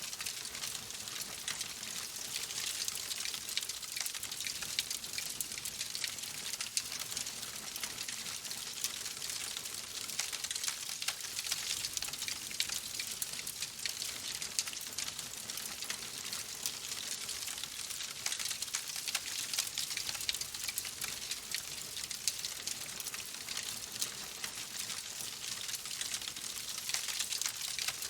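Wood fire crackling in a fireplace: a steady hiss studded with many small sharp pops and snaps.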